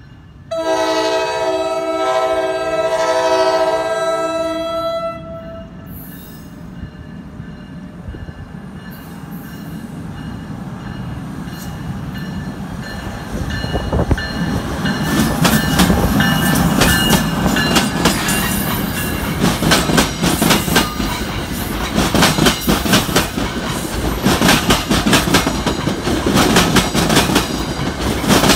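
NJ Transit ALP-46A electric locomotive sounding its horn in one long blast of about four and a half seconds as it approaches. The train then passes close by: a rumble builds, and from about halfway on there is rapid clicking of wheels over the rail joints as the coaches go by.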